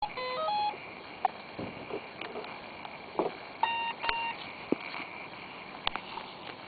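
Brushless speed controller of an NQD RC car powering up: a quick run of short electronic beeps at changing pitches, then, about three and a half seconds in, two more beeps close together, which is typical of the controller signalling it is armed. Light clicks and taps sound in between.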